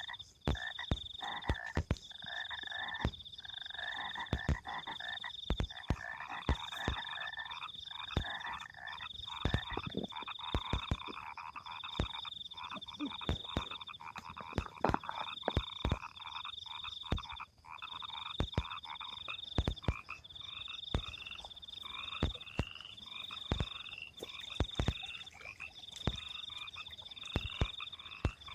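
A chorus of frogs calling at night in flooded rice paddies: dense overlapping croaking, with a high pulsing trill that comes in runs of a second or two. Frequent sharp clicks and knocks sound close by throughout.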